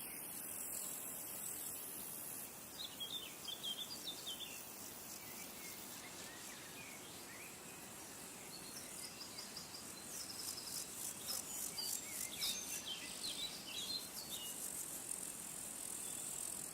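Insects chirring in a high, rapidly pulsing drone, with small birds chirping in short twittering runs a few seconds in and again past the middle.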